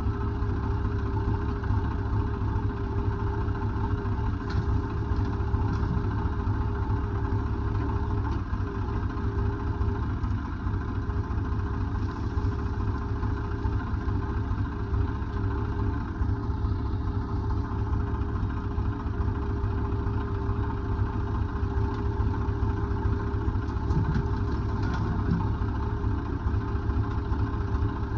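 Diesel engine of a heavy machine running steadily at low revs, with a few faint metallic knocks now and then.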